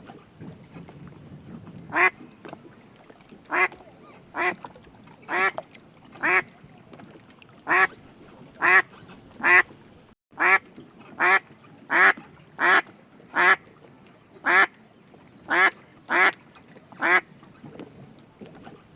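A duck quacking: about eighteen short single quacks at uneven intervals, coming closest together in the middle.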